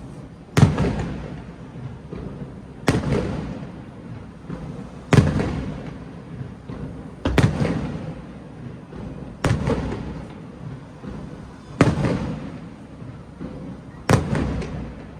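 Aerial fireworks shells bursting one after another, seven loud bangs about two seconds apart, each followed by a long rumbling echo that fades.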